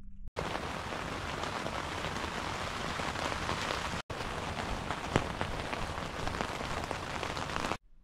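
Steady rain falling, an even hiss with a few sharper drop ticks, broken by a split-second gap near the middle and cutting off abruptly near the end.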